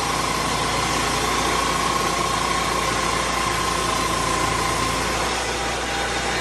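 Lucas Mill 10-30 swingblade sawmill's engine running steadily, with a steady high whine that fades out about five seconds in.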